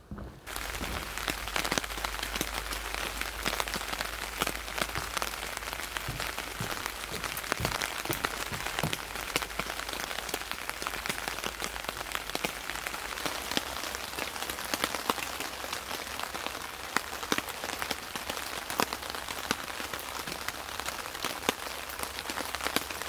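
Steady rain falling, heavy enough for a dense hiss, with many separate drops striking nearby surfaces.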